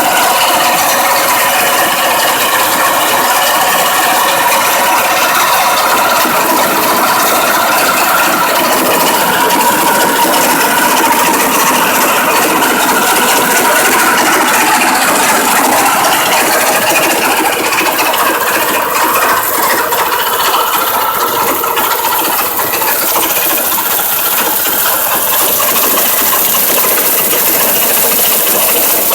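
MOROZ 1300 mm pumpkin-seed harvesting combine running, its 16 hp petrol engine driving the machine's working parts: a loud, steady, dense mechanical noise.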